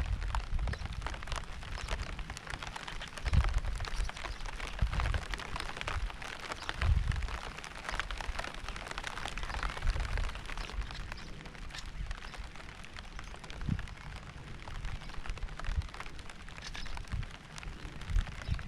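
Steady rain falling, a dense pattering of drops, with several low rumbling swells rising under it, the strongest about a third of the way in.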